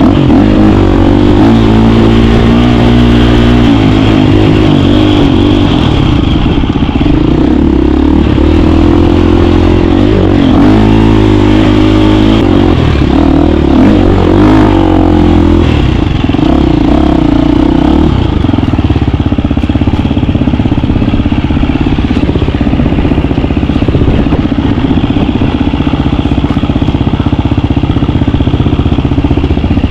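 KTM 350 dirt bike's single-cylinder four-stroke engine running while riding, its pitch rising and falling with the throttle, then holding steadier for the last third.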